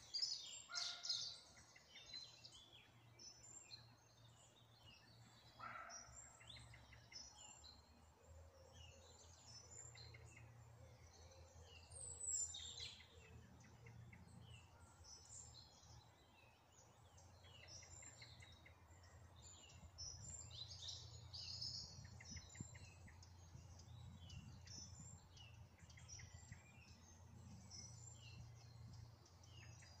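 Several songbirds singing and calling at once: many short, high chirps and trills overlapping throughout, with louder bursts of song near the start and again about two-thirds of the way in. A faint steady low hum runs underneath.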